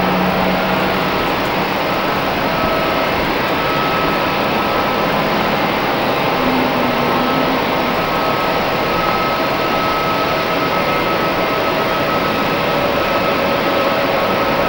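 Jet airliner engines running with a steady rush of noise and a few whining tones held through, no rise or fall.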